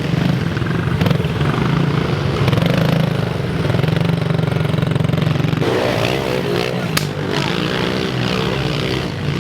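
Pit bike engines running steadily. From about six seconds in, another bike's engine note rises and falls as it revs. There is a sharp click about seven seconds in.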